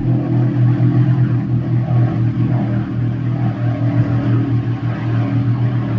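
An engine running steadily at low revs: an even low hum with a slight regular pulse.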